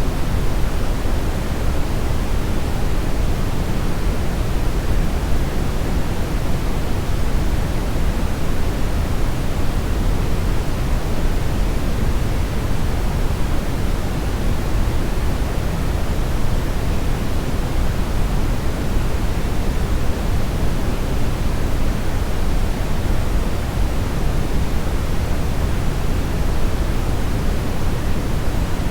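Steady synthetic brownish noise: a constant, even rumbling hiss weighted toward the low end, with no changes or events.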